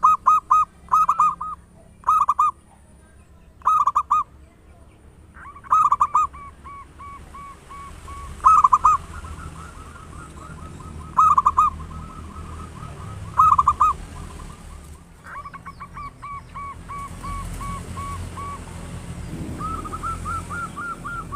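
Zebra doves (perkutut) cooing. Loud clusters of quick staccato coo notes come every two seconds or so, with softer long runs of rapid coo notes between them.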